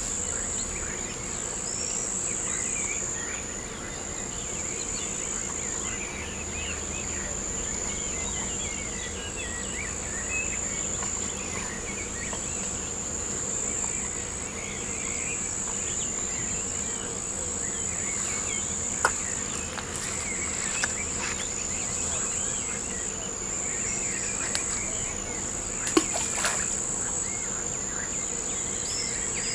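A steady, high-pitched insect trill, like crickets, runs on without a break over faint outdoor background. A few sharp clicks break in during the second half.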